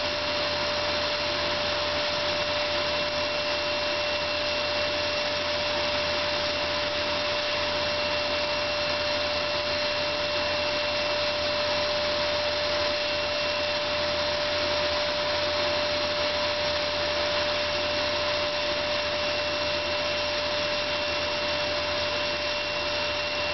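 Vacuum cleaner running steadily: a constant rushing noise with a steady motor whine, unchanging throughout.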